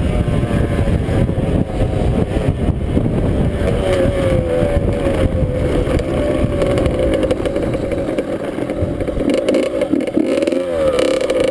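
Dirt bike engine running under way, its note rising and falling with the throttle, over a heavy low rumble. Near the end the rumble drops away and the pitch swings down and back up.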